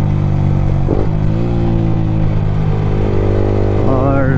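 Yamaha R15 V3's single-cylinder engine running through an Akrapovic aftermarket exhaust while riding, holding a fairly steady pitch.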